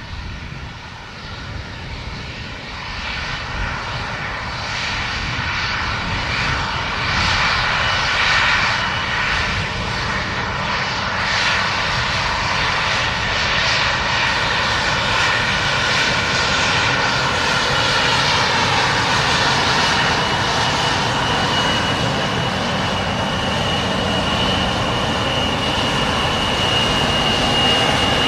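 Airplane engines running close by, growing louder over the first several seconds and then holding steady, with a thin high whine joining about twenty seconds in.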